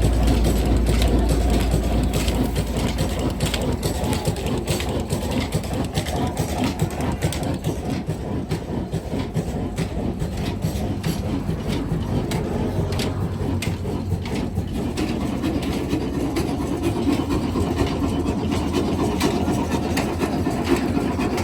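Diesel engine running with a fast, even clatter of knocks over a low rumble.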